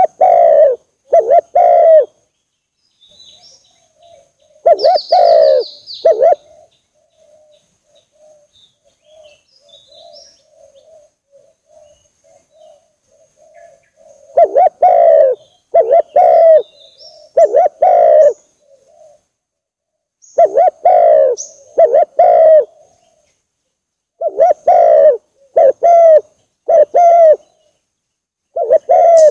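Spotted dove (tekukur) singing its 'kuk dua' song: short phrases of two or three rounded, loud coos, repeated after pauses. A softer, fainter cooing runs between the phrases in the first half, with a few faint higher chirps of other birds.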